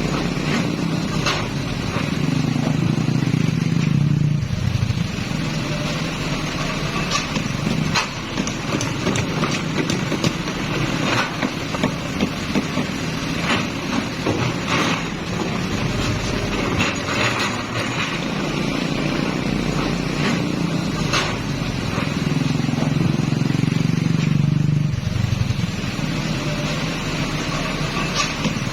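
Komatsu heavy machine's diesel engine running, working harder twice with a louder low drone for a few seconds each time, while scattered sharp knocks and clatters sound throughout.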